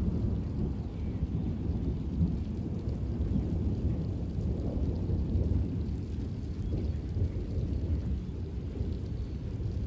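Summer thunderstorm: a continuous low rumble of thunder over steady rain.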